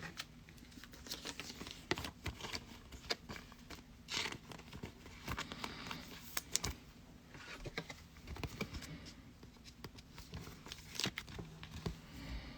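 Trading-card pack wrappers crinkling and tearing open, with the cards inside being handled: a faint, irregular string of small crackles, rustles and clicks.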